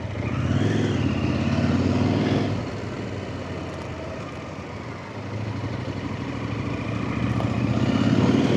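Off-road trail motorcycle engine running under changing throttle: it pulls harder in the first couple of seconds, eases off for a couple of seconds, then builds again.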